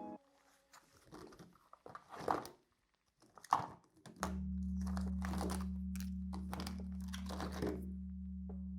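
Short scratchy, crinkling sounds of paper and drawing or painting tools being worked on a sketchbook page. About four seconds in, a low steady drone of ambient music comes in under them.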